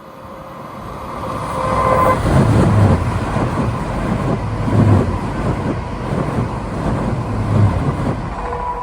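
A train passing close by. Its noise builds over about two seconds into a loud, steady rumble that swells three times, then starts to fade near the end.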